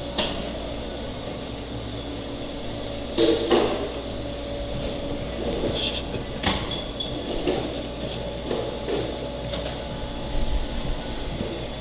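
Sandwich-shop counter ambience: a steady equipment hum under scattered knocks and clatter, with a cluster of louder clunks a little over three seconds in and a sharp click about halfway.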